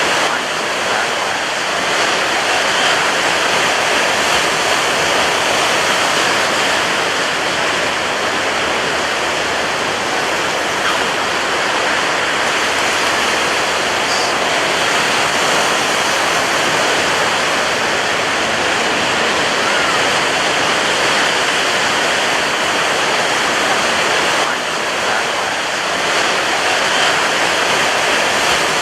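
Ocean surf crashing on a beach, heard as a continuous loud roar of breaking waves with little rise and fall.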